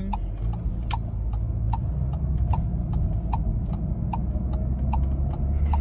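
Car turn-signal indicator ticking steadily, about two and a half ticks a second, over the low hum of the car's engine, which grows louder near the end as the car pulls away.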